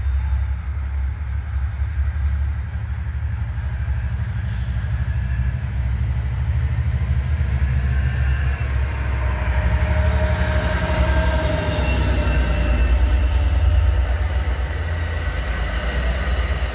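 Bilevel commuter train approaching and passing close by, with a steady low rumble throughout. From about six seconds in, rail and wheel noise builds with several whines as the coaches go past, including a faint high whine that slowly falls in pitch.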